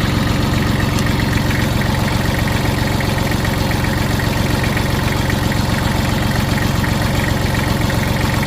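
Kubota L3130 tractor's four-cylinder diesel engine idling steadily.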